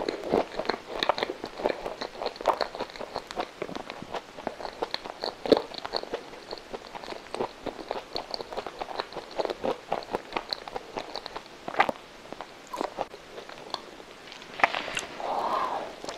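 Close-miked chewing of a soft coconut-coated custard roll: a steady run of short, moist mouth clicks and smacks, with a fresh bite near the end.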